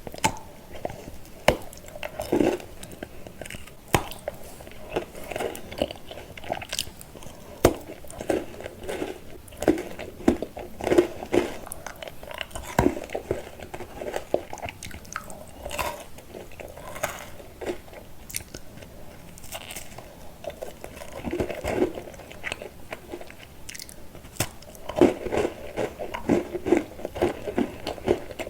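Close-up chewing and crunching of chocolate candy, with irregular sharp crunches and softer wet chewing between them.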